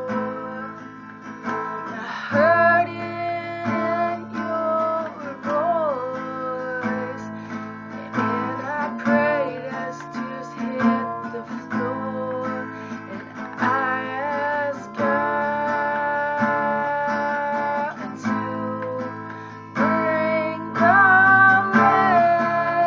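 A woman singing a slow song, accompanying herself on a strummed acoustic guitar.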